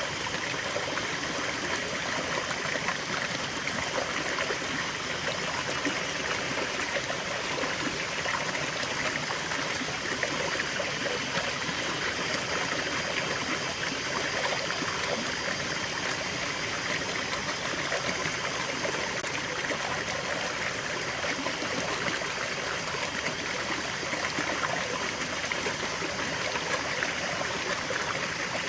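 Small stream of water flowing and trickling steadily over stones, a continuous babbling with no breaks.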